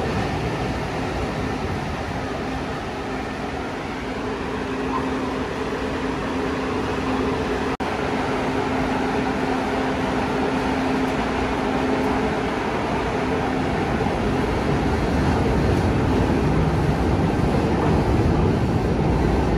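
CTA 'L' train of 2600-series cars on the elevated Loop track: steady wheel-on-rail and running noise with a humming motor tone that fades out about two-thirds of the way through as the train pulls away. The noise builds again near the end as the next train approaches.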